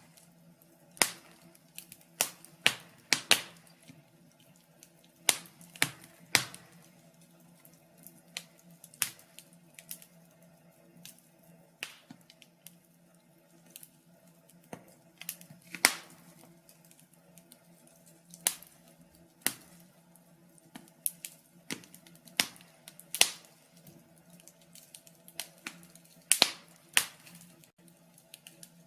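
Wood fire in a fireplace crackling: irregular sharp pops and snaps, sometimes several in quick succession, over a faint steady low hum.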